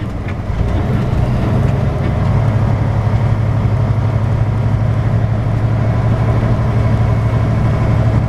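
Semi truck's diesel engine running with a steady drone and road noise while driving, heard from inside the cab.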